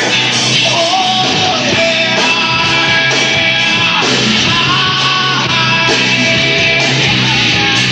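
Rock band playing live: a singer's voice over electric guitars and a steady full band.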